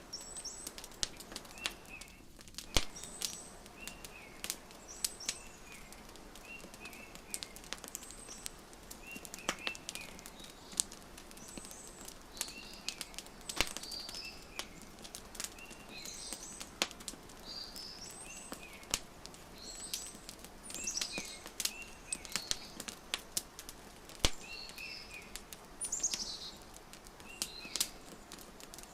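Wood fire crackling with sharp, irregular pops, mixed with small birds chirping in short, repeated phrases.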